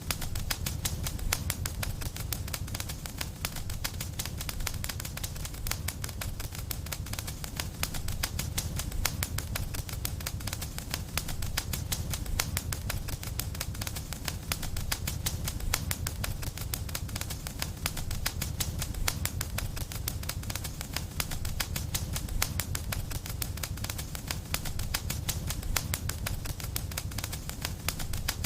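Wood fire in a fireplace crackling, with many small pops a second over a low, steady rumble.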